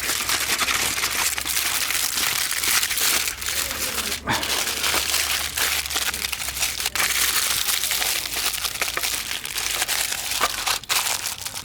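Food sizzling in a hot pan over a campfire: a steady, loud, dense crackling hiss, starting and stopping abruptly.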